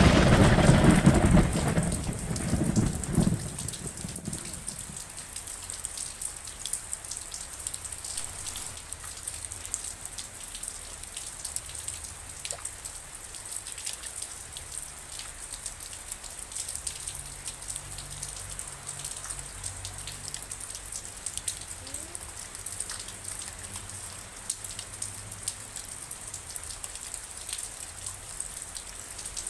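Thunder rumbling in the first few seconds and fading out, over steady rain. After that only the rain is left, a steady hiss with many separate drops striking a surface.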